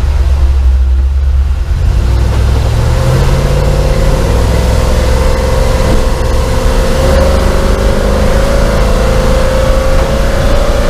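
LS V8 engine of a Chevy C10 pickup pulling under acceleration on the road. About two seconds in the engine and road noise build, and the engine note then climbs slowly in pitch as speed rises.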